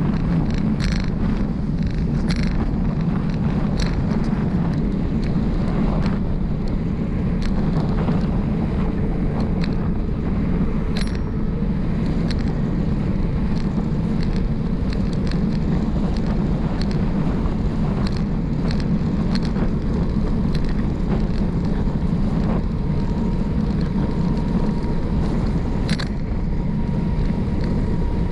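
Wind rushing over the microphone of a bicycle coasting fast downhill, mixed with tyre noise on the road. A few sharp clicks and rattles, most of them in the first few seconds and one about 26 seconds in.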